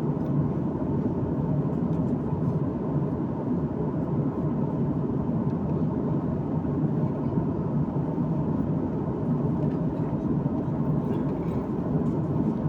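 Steady cabin noise of an airliner in flight: engines and rushing airflow heard from inside the passenger cabin as an even, unchanging noise.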